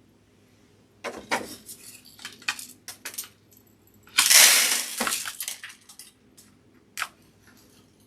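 Bird seed rattling and spilling in a glass mason jar as it is turned upside down onto a plastic chick-feeder base, with clinks of glass and plastic. A loud rush of seed pouring comes about four seconds in, and a single click near the end.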